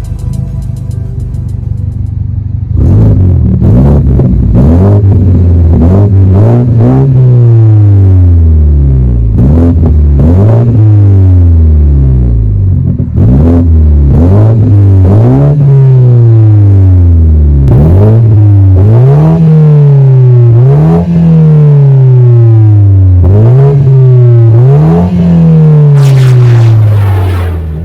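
2019 BMW 330i's turbocharged four-cylinder engine through a Kinney's Street Demon performance exhaust, idling and then blipped over and over from about three seconds in. Each rev climbs quickly and falls back more slowly, more than a dozen times.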